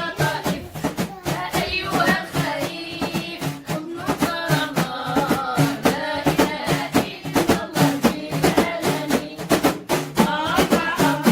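Devotional dhikr chant: voices singing a melodic line over a steady run of hand-drum strokes.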